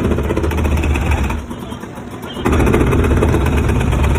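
Engine of a heavy demolition machine running hard in two surges of about two seconds each, dropping back briefly between them.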